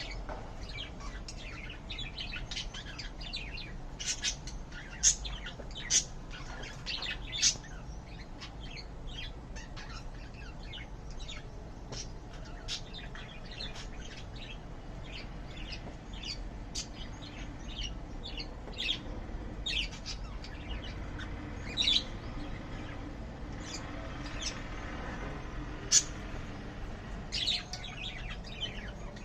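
Small pet birds chirping: many short, high chirps and calls throughout, with a few sharper, louder calls now and then, over a low steady hum.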